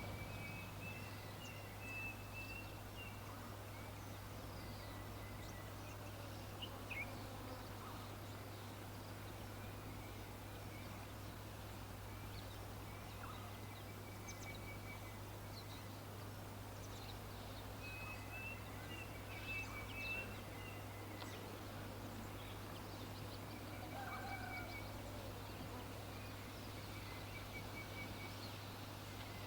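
Faint birdsong: scattered short chirps and calls, with one bird singing a high trilled phrase near the start and again about eighteen seconds in, over a steady low hum.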